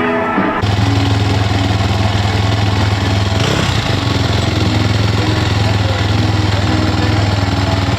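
Motorcycle engine running steadily at close range, starting abruptly about half a second in.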